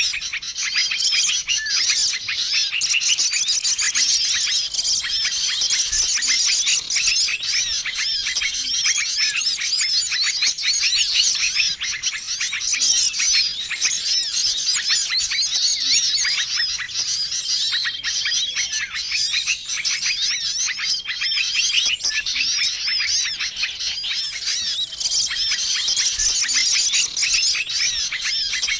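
Bird-lure recording of many small birds chirping and twittering at once, a dense, busy chorus with a short level whistle recurring every couple of seconds. It is a 'ribut' (noisy) lure mix, played to draw small wild birds in.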